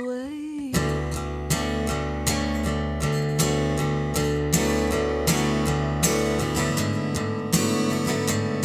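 Live song: a held sung note ends under a second in, then guitar is strummed in a steady rhythm of chords.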